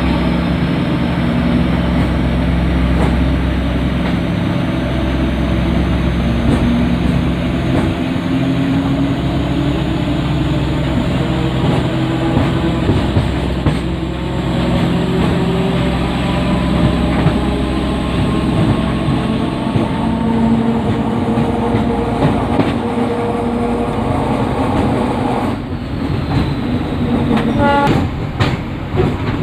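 Train running at speed: a steady rumble of wheels on rails with scattered clicks of rail joints and faint slowly gliding tones under it.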